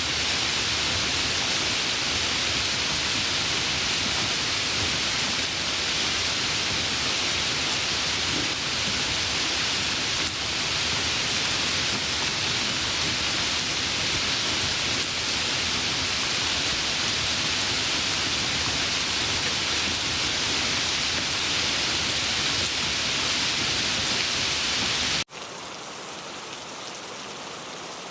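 Heavy rain falling as a steady, even hiss. About 25 seconds in it cuts off abruptly and gives way to quieter, lighter rain with more distinct drops.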